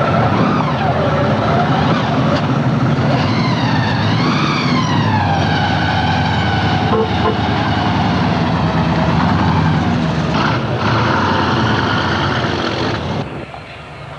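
Classic American cars driving slowly past with a low, steady engine rumble. A high, wavering tone rises and falls over it for much of the time. The whole sound drops suddenly near the end.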